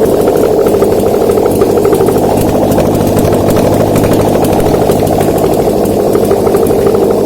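Subaru EJ204 2.0-litre flat-four engine idling steadily on a test stand.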